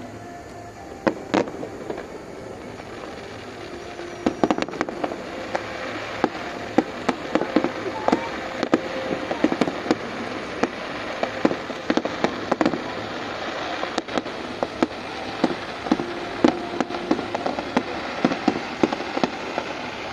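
Fireworks going off: a couple of sharp bangs about a second in, then from about four seconds on a dense, irregular run of sharp bangs and crackles.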